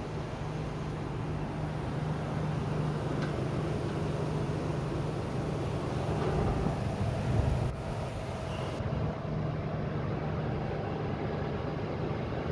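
Toyota FJ62 Land Cruiser's inline-six engine idling steadily, heard over the open engine bay, with a slightly louder stretch a little past the middle.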